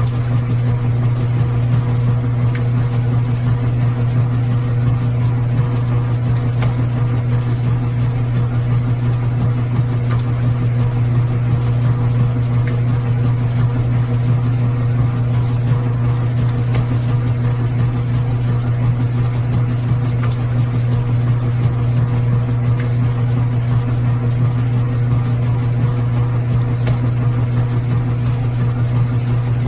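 Washing machine running with a steady, even motor hum that does not change in pace, with a few faint ticks.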